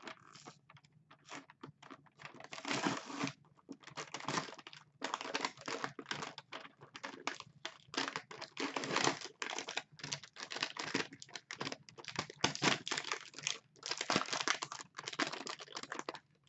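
Takeaway food packaging being crinkled and torn open by hand in irregular crackling bursts while a wrapped chicken wrap is unwrapped.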